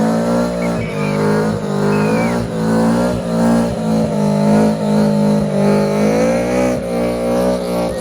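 Car engine held at high revs, its pitch wavering with brief dips about twice a second.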